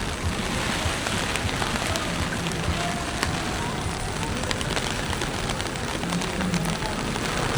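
Heavy typhoon rain falling steadily: a dense hiss with scattered sharp ticks of drops striking.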